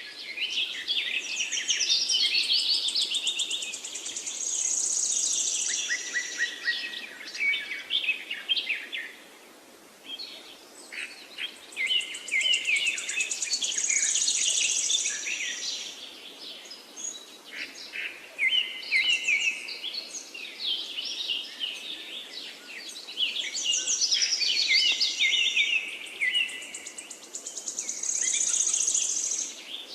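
Several songbirds chirping and singing at once: a busy chorus of rapid twittering phrases with a few short lulls, and a high thin trill that comes back several times.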